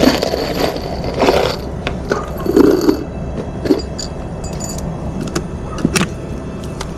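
Scattered metal clicks, knocks and rattles of small hardware and tools being handled, over a steady low rumble.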